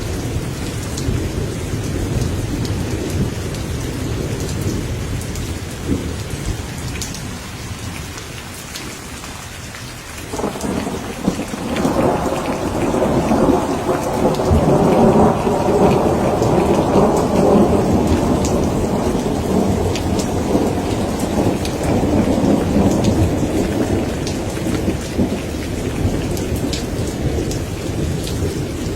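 Steady rain falling, with scattered drops ticking, and a long roll of thunder that breaks in suddenly about ten seconds in, swells to its loudest a few seconds later and slowly rumbles away near the end.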